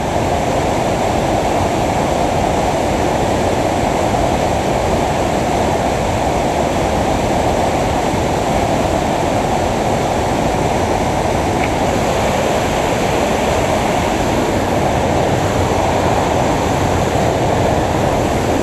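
Waterfall water pouring and splashing: a loud, steady rushing noise that holds even throughout.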